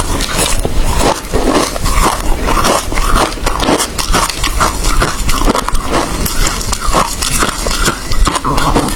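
Ice being chewed close to the microphone: loud, rapid crunching, several crunches a second.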